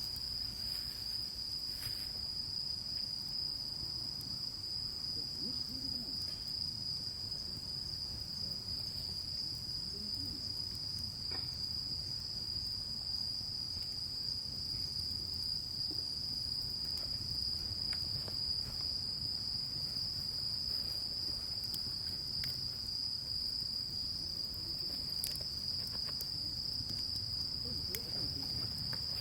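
Crickets trilling in one continuous high, steady note, with a low background rumble and a few faint ticks.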